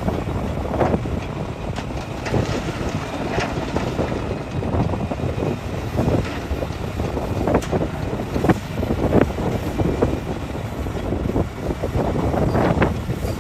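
Hitachi excavator's diesel engine working under load, with repeated knocks and clatter of rock against the bucket. Wind buffets the microphone.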